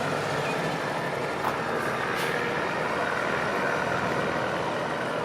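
Steady road traffic noise with the engines of heavy vehicles such as trucks and buses running.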